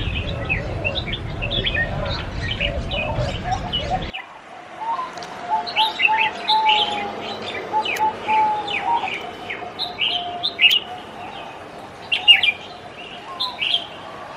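A chorus of caged songbirds singing together, with many quick high chirps and trills over a line of lower whistled notes. A low background rumble cuts off abruptly about four seconds in.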